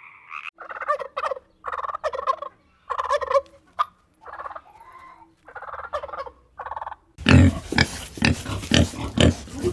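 Turkey gobbling in about six short, rattling bursts. About seven seconds in, a much louder animal takes over with rapid, deep grunting calls.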